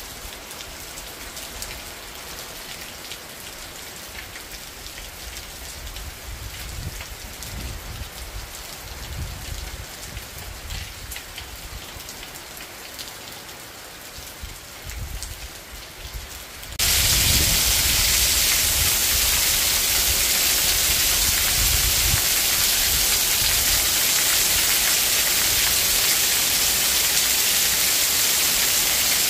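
Steady rain falling, with low rumbles now and then. About seventeen seconds in it cuts abruptly to a much louder, hissing downpour of heavy rain driven by wind.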